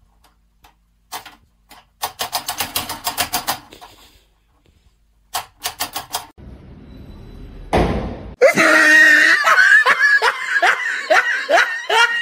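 People laughing, in short runs at first, then in a long, loud fit of rhythmic laughter from about eight seconds in.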